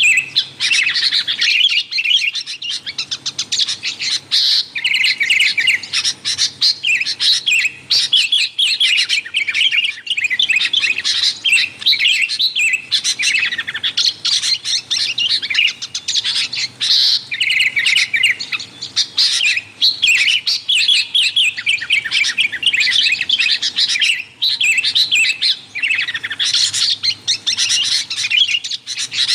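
Sooty-headed bulbul (kutilang) calling noisily: rapid, chattering phrases of chirps repeated almost without pause, with only brief breaks.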